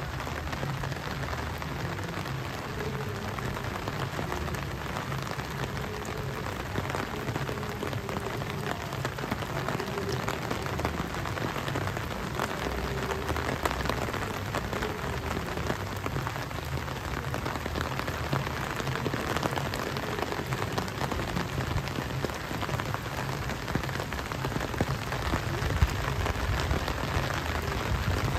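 Steady rain falling: a constant hiss dense with fine drop ticks, growing slightly louder after the first third.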